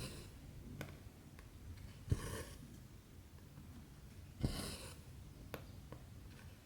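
Cross-stitch needle and cotton thread pulled through 14-count fabric: two short swishes of thread drawn through the cloth, about two seconds apart, each starting with a sharp tick of the needle, with faint taps in between.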